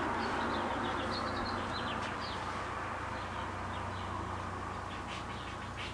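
Small birds chirping with short, high calls in the first couple of seconds, over a steady low hum and outdoor background noise.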